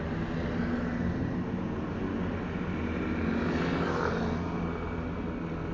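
A motor vehicle's engine running steadily, with a broader swell of noise about three to four seconds in, as of a vehicle passing close by.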